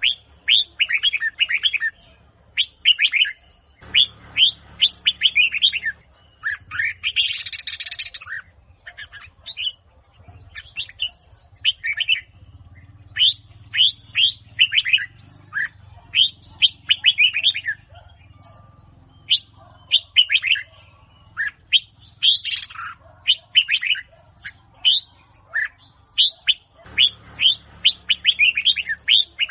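Huế-type red-whiskered bulbul singing: phrase after phrase of quick, sharp, high whistled notes, each phrase a second or two long with short pauses between.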